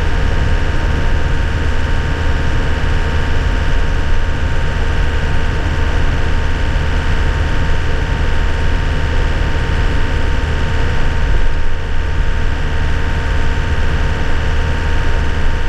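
2001 Nissan Cabstar truck's engine running at a steady pitch while driving, heard from inside the cab over road noise.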